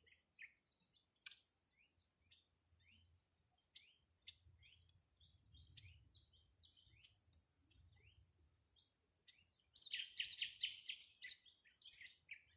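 Wild birds calling: scattered short chirps, many sliding down in pitch, then a quick run of louder, rapid notes near the end.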